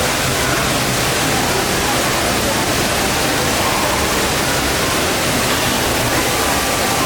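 Steady rushing noise of running water, even and unbroken, with a faint murmur of voices beneath it.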